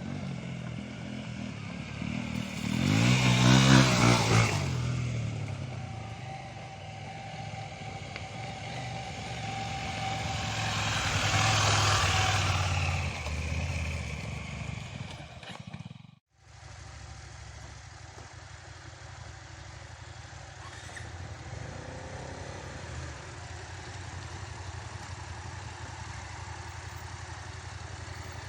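Motorcycles running on a trail ride: one passes close about three seconds in, the engine sound swells again around twelve seconds, and after a short break near the middle it continues at a steadier level.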